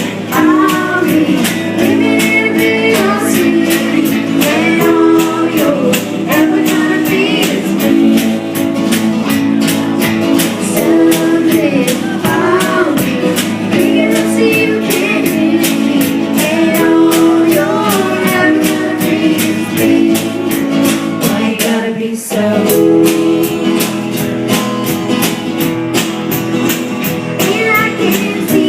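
A song performed by a female singer over a strummed guitar with a steady beat; the music dips briefly about two thirds of the way through.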